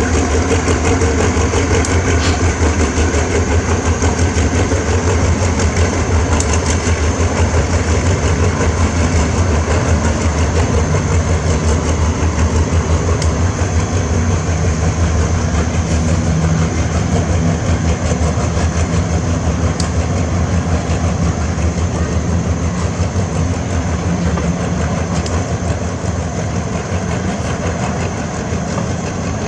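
Diesel locomotive engine running steadily with a deep, even hum, slightly quieter near the end.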